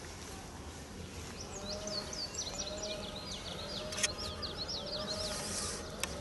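Outdoor ambience: a songbird sings a quick run of high, falling notes for about three seconds. Under it, a lower call repeats about once a second over a steady low rumble. A couple of sharp clicks are heard.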